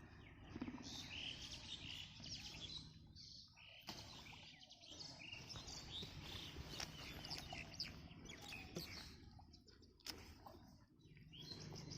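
Birds chirping faintly: many short, high calls over low background noise.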